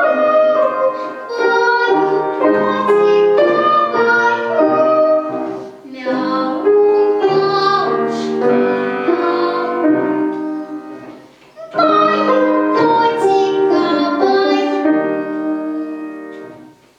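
A young girl singing a song with piano accompaniment. The music drops out briefly twice and dies away near the end.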